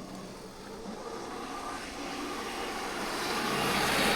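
A road vehicle approaching, its tyre and engine noise growing steadily louder and peaking near the end.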